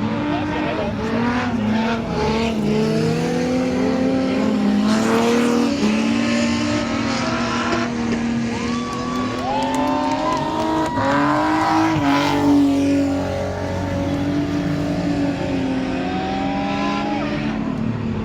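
Several stock car engines running hard together, their pitches rising and falling as the cars accelerate, lift and pass.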